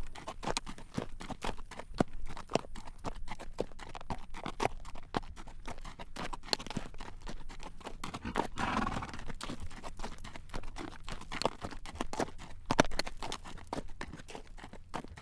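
A horse's hooves clip-clopping at a walk on a road, a steady run of sharp clacks as it pulls a carriage. About halfway through there is a short, louder noisy swell.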